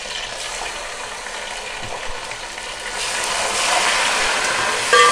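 Hot oil sizzling in a pot as tomatoes, green chillies and ginger-garlic paste are stirred into fried onions; the sizzle gets louder about three seconds in as the mixture is stirred. A brief ringing knock comes near the end.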